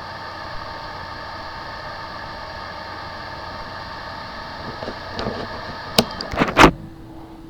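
Steady machine hum with several steady tones over an even noise. About six seconds in come a few sharp clicks and knocks, after which the noise drops and a single lower steady hum remains.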